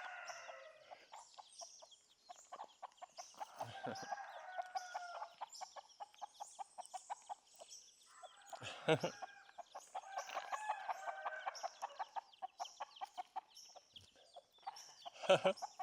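A hen clucking in three spells of drawn-out, wavering calls, with her chicks cheeping high and short throughout.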